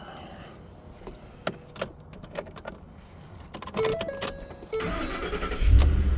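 Keys and small clicks, then the 2010 Ford F-150's 5.4-litre V8 cranks briefly and catches near the end, settling into a steady low run. It starts and keeps running with the mass airflow sensor unplugged instead of stalling.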